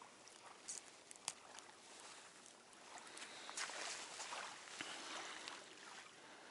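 Wind and lapping water, a steady faint hiss that swells for a couple of seconds midway, with a few small clicks near the start.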